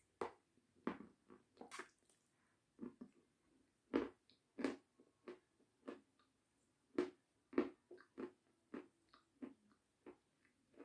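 Close-up biting into and chewing meringue: an irregular series of crisp crunches, one or two a second.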